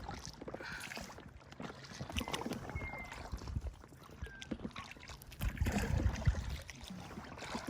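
Paddling an Intex Explorer inflatable kayak: paddle strokes with water splashing and gurgling against the hull, heavier about two thirds of the way in. A few short high chirps come in the middle.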